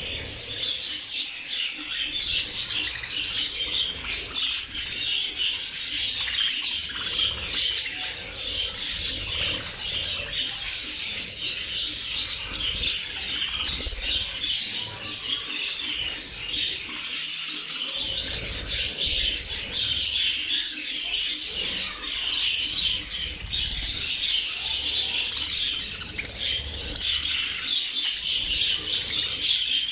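A large flock of budgerigars chattering and chirping continuously, many birds at once.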